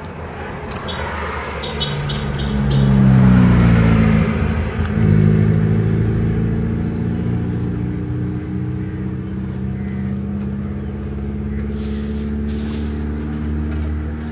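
A motor vehicle's engine, rising in pitch and loudness about two seconds in, loudest a few seconds later, then running steadily at an even pitch.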